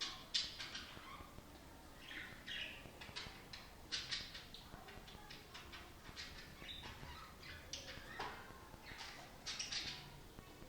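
Budgerigar chattering: a string of short, scratchy chirps and clicks, with louder bunches near the start, about four seconds in, and near the end.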